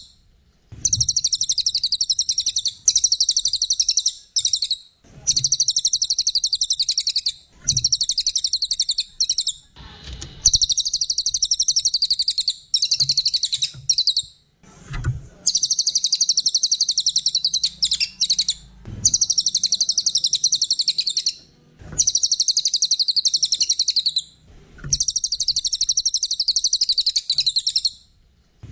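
A small songbird singing a rapid, high-pitched chattering trill, in repeated bouts of two to three seconds with short pauses between them.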